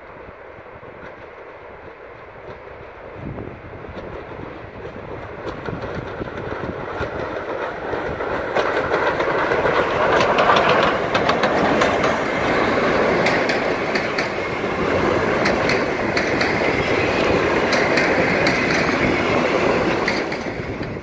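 Steam-hauled passenger train approaching and passing close by, growing louder until the locomotive goes past about ten seconds in. Then the carriages roll by with a steady rumble and a run of sharp wheel clicks over the rail joints.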